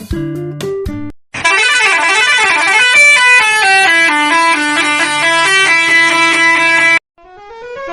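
Truck's musical air horn playing a tune of quick stepped notes, loud and lasting about five and a half seconds, after the end of a guitar music track. It cuts off suddenly, and a rising glide of notes starts near the end.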